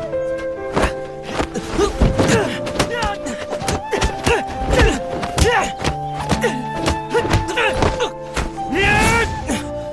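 Background music with sustained tones under a scuffle: repeated thumps and knocks of bodies and blows, with short grunts and cries from the people struggling, a louder cry near the end.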